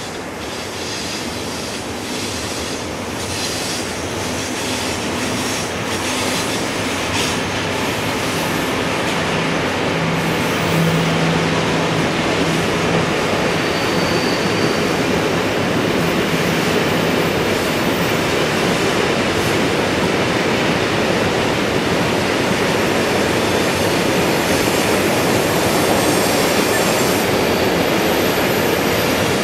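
Heavy container freight train rolling past on a steep downhill gradient, with a steady rumble of wagons on the rails that grows louder over the first few seconds. High-pitched brake and wheel squeal comes and goes over it, a sign of the wagons braking hard on the descent.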